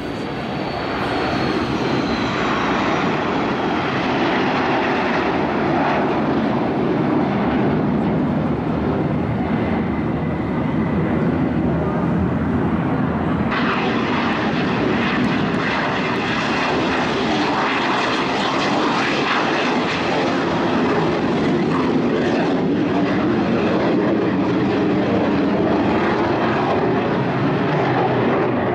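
Turbojet engines of Aermacchi MB-339 aerobatic jets flying past, a loud continuous jet noise. A whine falls in pitch over the first few seconds, and about halfway through the high hiss suddenly grows stronger.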